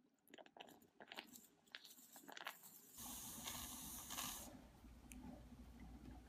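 A run of light clicks and crunches, then about three seconds in the Salvatore espresso machine's pump switches on with a steady hum and a strong hiss; the hiss eases after a second and a half while the hum runs on.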